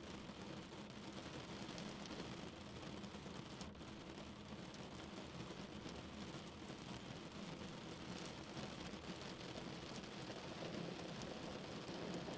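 Rain falling on a car's roof and windshield, heard from inside the cabin, over steady road and engine noise of the car driving.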